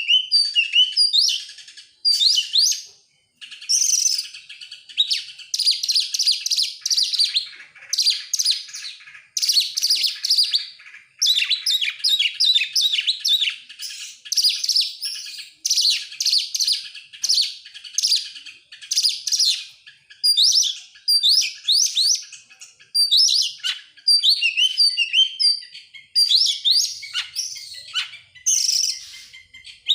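Oriental magpie-robin (kacer) in full song: a continuous, varied run of clear whistles, sweeping notes and rapid chattering phrases, broken by brief pauses. This is the kind of recording played to caged magpie-robins to set them singing.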